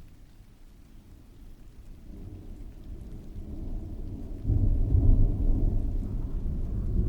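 Rolling thunder that builds from a faint rumble and swells sharply to a loud, deep roll about two-thirds of the way in, with rain falling steadily underneath.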